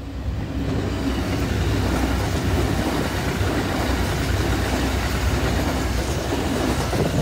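Electric train running past close by, the steady rumble and rush of its wheels on the rails.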